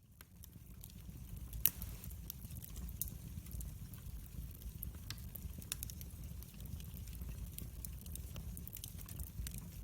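Wood fire burning in a fireplace: irregular sharp crackles and pops over a steady low rumble, with the loudest pop about a second and a half in.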